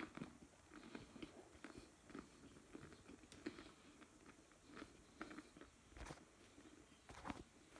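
Faint, irregular chewing of a mouthful of homemade pizza, with small crunchy clicks and a couple of slightly stronger ones near the end.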